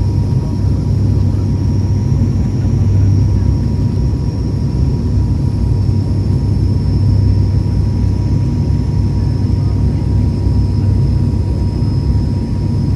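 ATR 72 turboprop cabin drone: a steady low propeller hum with a faint constant whine above it, even throughout.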